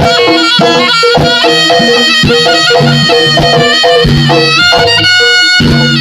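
Javanese jaranan ensemble playing: a shrill reed trumpet (slompret) carries a continuous melody over repeated pitched gong-chime notes and drum strokes.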